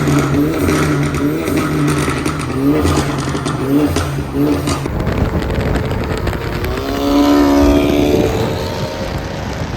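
Car engine being revved in quick throttle blips, the pitch rising and falling about every half second, with sharp exhaust pops among them. A longer rev comes near the end.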